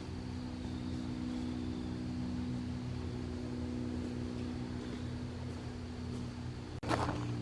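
A motorboat engine runs with a steady low drone. Near the end it gives way abruptly to louder rustling and knocking.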